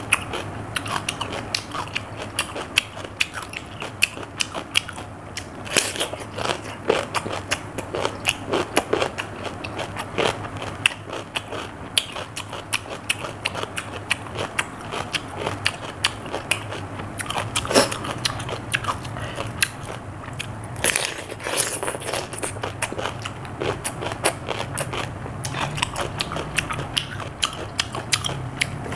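A person chewing raw cucumber: a steady run of crisp, wet crunching clicks, a few louder than the rest.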